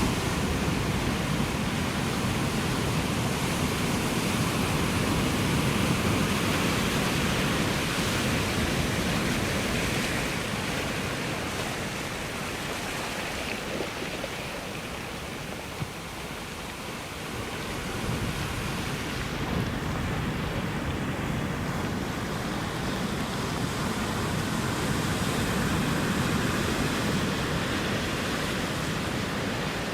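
Ocean surf washing steadily, a continuous rush of breaking waves that eases off a little about halfway through and then builds again.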